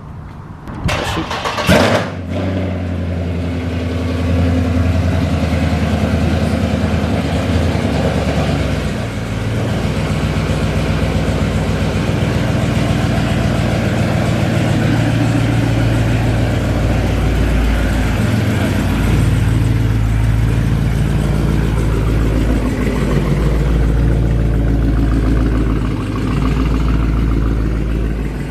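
Dodge Charger Scat Pack's 392 HEMI V8 starting: a brief loud flare on the catch about a second in, then running steadily at idle.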